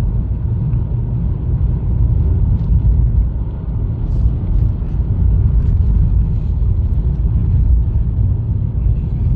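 Steady low rumble of road and engine noise inside the cabin of a 2020 Honda Fit, with its 1.3-litre four-cylinder engine, driving along.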